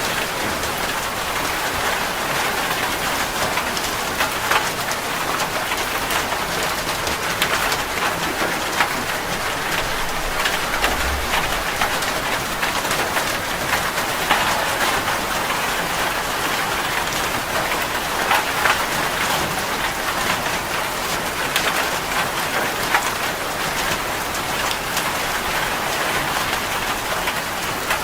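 Heavy rain falling on a metal roof: a steady hiss with frequent sharper drop strikes scattered through it.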